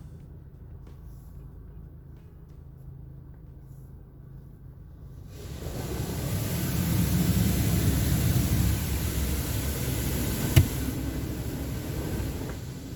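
Low steady rumble of a car waiting in the bay. About five seconds in, a loud steady hiss of water spray from a PDQ LaserWash G5 touch-free car wash starts and keeps going, with one sharp knock about two-thirds of the way through.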